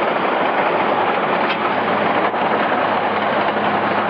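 Heavy road-construction machinery running: a loud, steady, dense mechanical noise.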